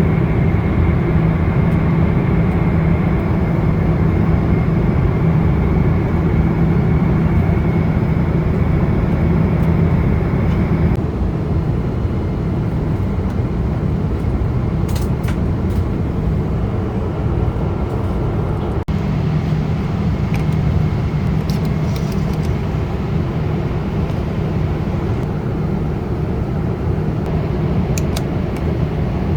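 Steady drone of an airliner cabin in flight, the engine and airflow noise of a Boeing 777-200ER heard from a seat, with a low hum and a faint high whine. The drone shifts abruptly about a third of the way in, with a few faint clicks later on.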